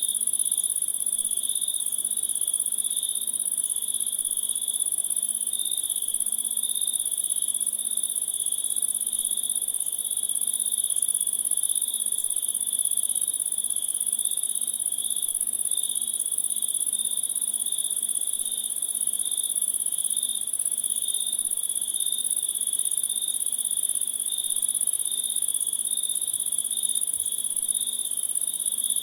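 Chorus of insects, crickets by their sound, chirping without pause: a steady very high-pitched ringing over a lower, evenly pulsing trill.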